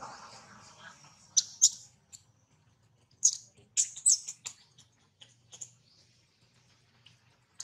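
Birds giving a scatter of short, sharp, high-pitched chirps, about a dozen in quick ones and pairs over the first few seconds.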